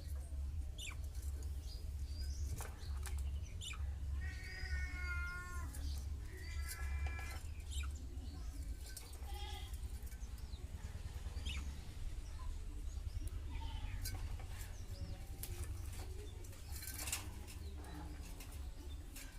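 Pet budgerigars chirping and chattering, with short warbled calls and sharp clicks, over a steady low hum.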